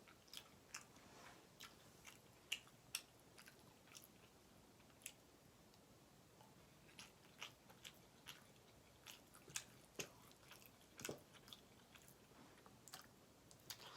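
Faint, close-up chewing of soft food: scattered wet mouth clicks and lip smacks at an irregular pace.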